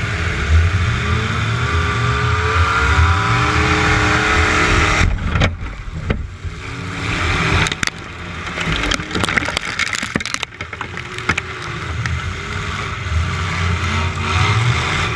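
Demolition derby truck's engine revving hard, its pitch climbing and falling, with a sudden drop about five seconds in. A cluster of sharp bangs and clatter follows in the second half.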